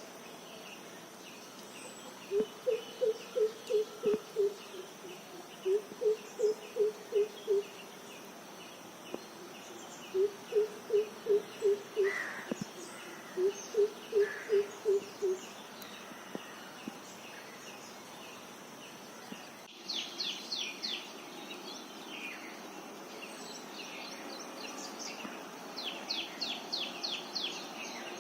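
Outdoor birdsong: a bird gives four runs of about seven quick, low hooting notes in the first half, over a steady series of faint high chirps. Later another bird sings two short bursts of rapid high notes, with steady background hiss throughout.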